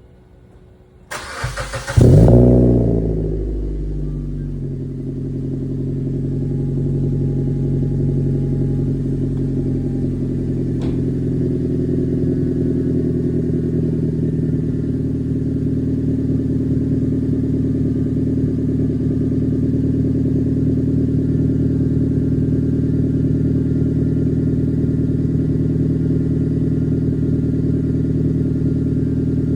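Suzuki Swift Sport ZC31's 1.6-litre four-cylinder engine cold-started through a Greddy Beatmax Ti aftermarket exhaust. The starter cranks briefly, the engine catches about two seconds in with a short rev flare, and its pitch drops over a few seconds as it settles into a steady cold idle.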